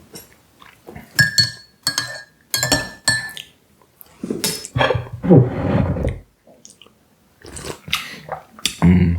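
A metal spoon stirring tea in a ceramic mug, striking the sides in four ringing clinks, then louder handling noises from about four seconds in.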